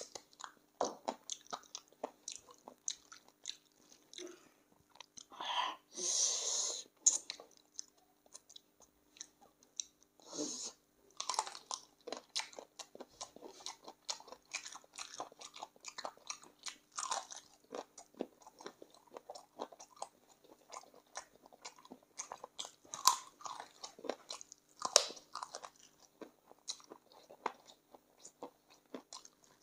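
Close-up chewing and biting on spicy chicken feet: irregular wet smacks and small crunches of skin and cartilage, with a louder noisy stretch lasting about a second around six seconds in.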